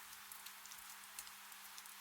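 Gentle rain falling, a soft steady hiss with many small drops ticking close by.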